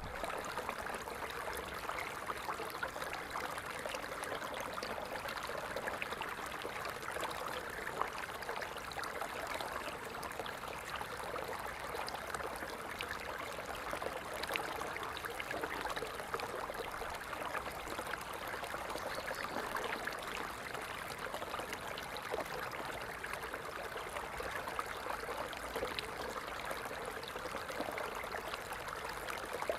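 Water falling and trickling steadily, in an even splashing rush with small scattered droplet splashes.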